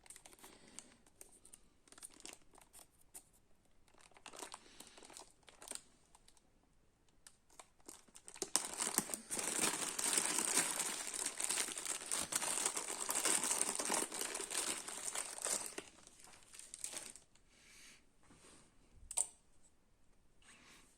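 Plastic packaging crinkling and rustling as a new replacement printer main motor is unwrapped. Scattered rustles at first, then several seconds of dense crinkling in the middle, and a sharp click near the end.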